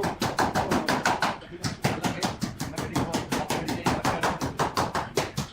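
A rapid, even series of sharp knocks, about eight a second, with a brief pause about a second and a half in.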